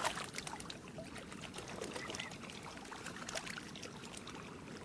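Water splashing and trickling in many small, quick splashes, with a few faint short animal calls.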